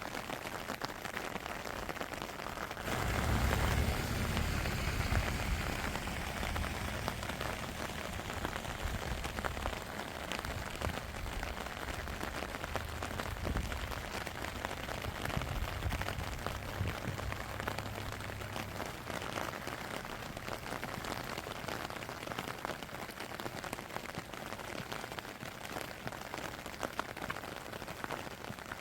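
Steady rain falling, with many small drop ticks. A low rumble joins about three seconds in and fades out about two-thirds of the way through.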